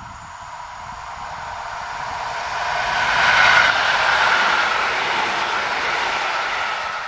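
Electric multiple unit passing at speed: wheels running on the rails. It grows steadily louder as it approaches, is loudest about three and a half seconds in as the cars go by, and stays loud to the end.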